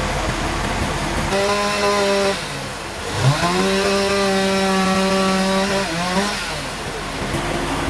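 Sawmill saw cutting wood, whining steadily over the constant noise of mill machinery: a short cut about a second in, then a longer one from about three seconds to six that rises in pitch as it starts and drops as it ends.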